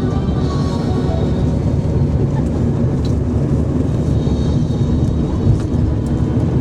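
Steady low rumble of a vehicle in motion, running evenly without a break.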